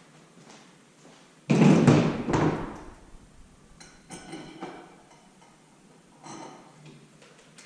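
A loud metal clunk about one and a half seconds in, then lighter metallic clinks and clatter as engine parts and hand tools are handled during the removal of an LS engine's steam port coolant pipe.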